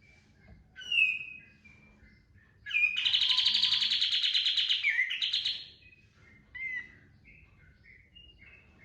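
Olive-winged bulbul (kapas tembak) singing: scattered short chirps and a falling call, then about three seconds in a loud, rapid, rattling burst lasting about three seconds, the 'tembakan' song that keepers prize. Another short call follows.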